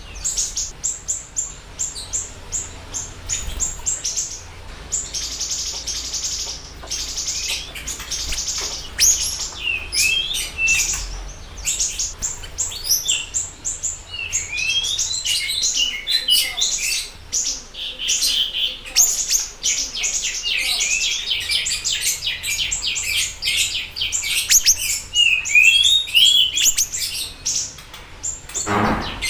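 Siri-siri birds singing: a dense, continuous stream of rapid high chirps and short warbling trills, with a brief sharp click just before the end.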